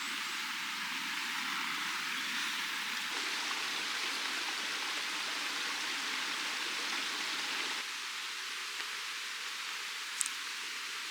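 Steady, even rushing noise, with one brief sharp tick near the end.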